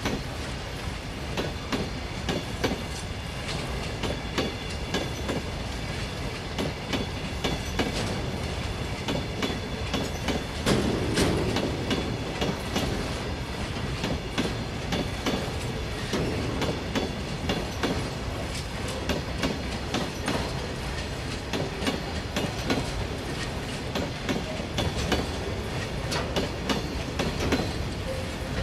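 Covered BCNA freight wagons rolling past, their wheels clattering over rail joints in a continuous clickety-clack with metallic rattles, briefly louder about eleven seconds in.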